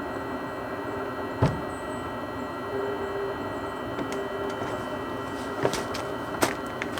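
A steady hum of several fixed tones, with a few sharp knocks; the loudest, with a low thump, comes about a second and a half in.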